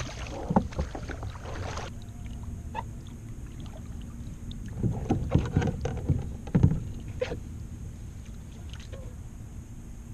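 Knocks, bumps and scrapes of fishing gear being handled against a kayak hull, over a steady low rumble. The knocks come thickest and loudest around the middle.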